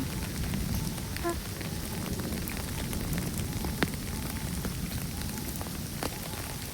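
Steady rainfall, a continuous hiss with many scattered drop ticks, and one sharper tick a little past halfway.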